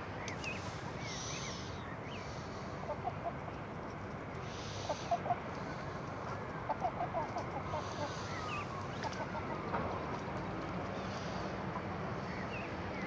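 Chickens clucking in short clusters of quick notes over a steady background hiss, with a few higher bird chirps.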